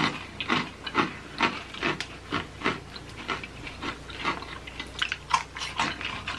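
Close-up chewing of crunchy snack food, with sharp irregular crunches coming about three times a second.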